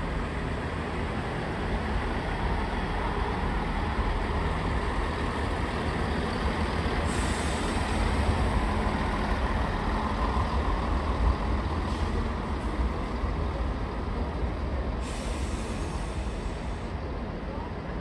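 Train running at a railway station platform: a steady low rumble with a noisy hiss over it, growing a little louder midway and easing off toward the end.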